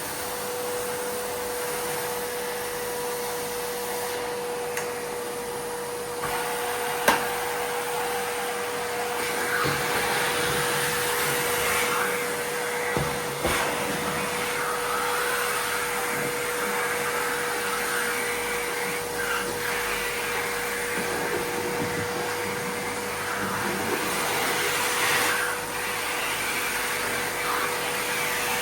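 Miele vacuum cleaner running steadily with a constant whine as the nozzle moves over the floor. A few sharp clicks and rattles, the loudest about seven seconds in, come from small Lego pieces being sucked up.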